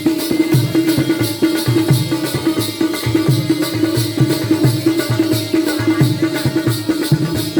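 Jakhadi folk dance music: a drum beating a driving rhythm with small hand cymbals striking about four times a second over a steady held tone.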